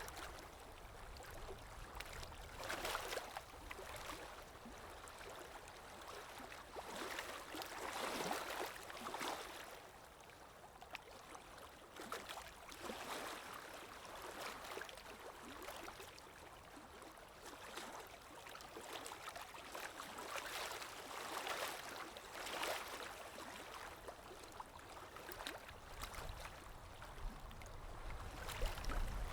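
Water bubbling and gurgling as a steady ambience, swelling in uneven surges every few seconds.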